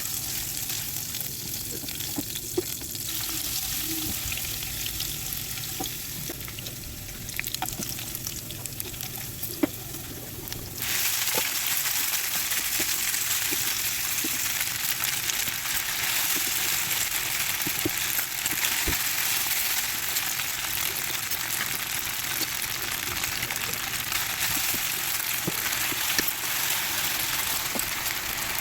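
Food sizzling and frying in a hot pan, a steady crackling hiss that turns suddenly louder about eleven seconds in, with a few sharp ticks along the way.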